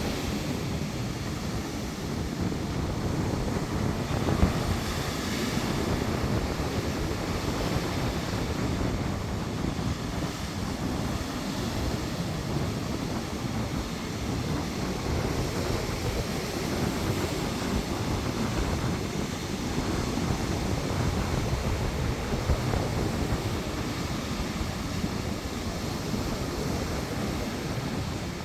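Sea waves surging in a strong wind, with gusts buffeting the microphone in a low, uneven rumble.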